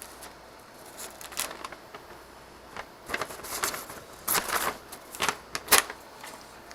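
Things being handled and moved about: irregular rustling with sharp clicks and knocks, busier in the second half, the sharpest click a little before the end.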